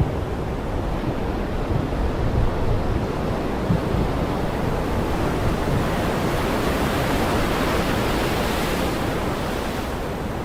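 Heavy rain pouring steadily, an even hiss that swells a little about eight seconds in.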